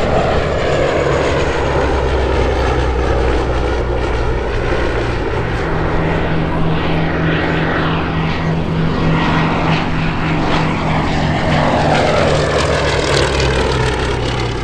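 Piston-engined propeller aircraft running loud and steady, several engines at once, as a formation flies by; the engine pitch drops as they pass, about eight to twelve seconds in.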